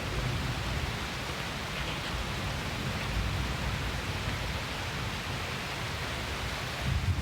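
Heavy rain falling in a steady hiss. Near the end, a deep rumble of thunder begins to build.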